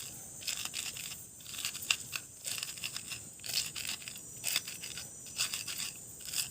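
Irregular short crunching and tearing scrapes, one or two a second, from food being handled and prepared by hand.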